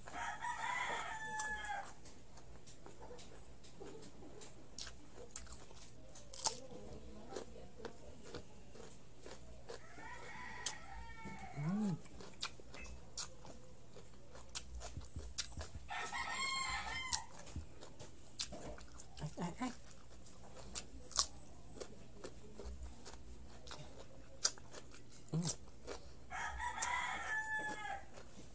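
Crisp crunching and chewing of raw cucumber, sharp bites scattered throughout. A rooster crows four times in the background: near the start, about ten seconds in, about sixteen seconds in, and near the end.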